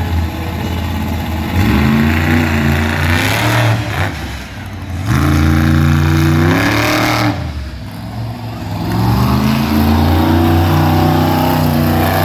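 A big V8 engine on a show truck revving hard three times, its pitch climbing and holding at each rev and dropping back in between.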